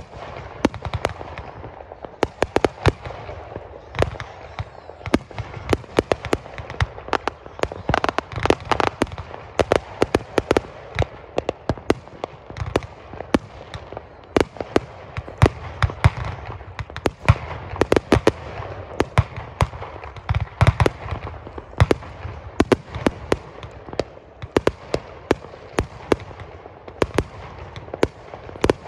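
Aerial fireworks going off in a dense, nonstop barrage: many sharp bangs a second over constant crackling.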